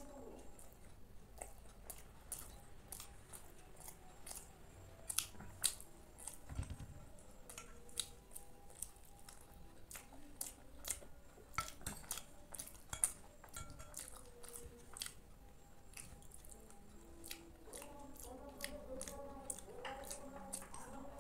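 Close-miked eating of kheer, a soft milky rice pudding: wet chewing and lip smacks with many short, sharp mouth clicks scattered throughout.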